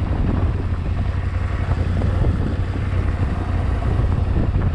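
Yamaha Ténéré 700's parallel-twin engine running at a steady low drone while riding, with wind buffeting the microphone.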